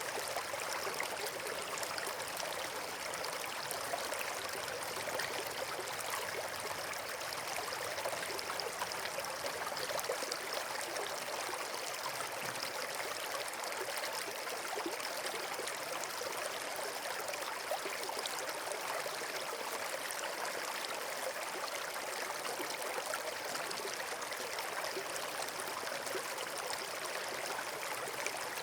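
Steady running water, like a stream or small waterfall: an even rushing and trickling that does not change.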